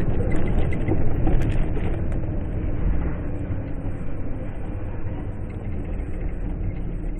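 Steady low rumble of a car driving on the road, with a few faint clicks about a second in and a slow slight fade toward the end.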